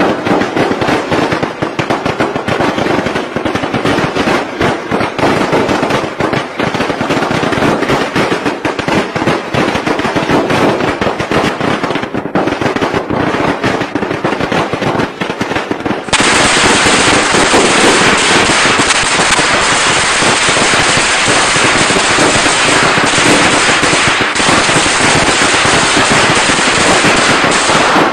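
Strings of firecrackers going off in a rapid, continuous crackle of loud cracks. About 16 seconds in, it cuts abruptly to an even louder, denser, unbroken crackle.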